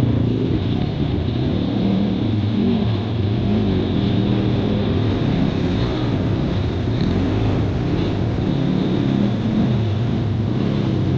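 Kawasaki KLX140 dirt bike's single-cylinder four-stroke engine running as it is ridden, its pitch rising and falling with the throttle.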